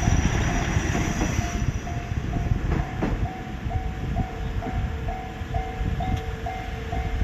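Heisei Chikuho Railway diesel railcar passing over a level crossing, its low rumble and a few wheel clicks easing off, while the crossing's electronic warning alarm from its speaker keeps ringing about two and a half short tones a second. A lower steady tone joins about halfway through.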